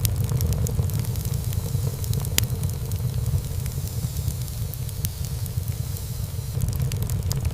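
Wood fire burning in a fireplace: a steady low rumble of flames with scattered sharp crackles and pops of burning wood, one louder pop a little over two seconds in. The crackling thins out in the middle and picks up again near the end.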